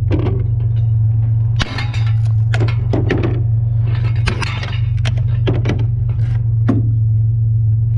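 Scrap being broken down by hand: a run of irregular knocks, clanks and rattles as pieces are pulled apart and handled, over a steady low hum.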